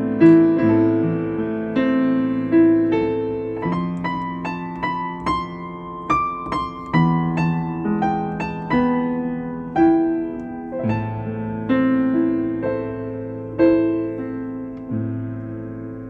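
Slow, gentle solo piano music: single melody notes struck about once or twice a second over held low bass notes, ringing and dying away.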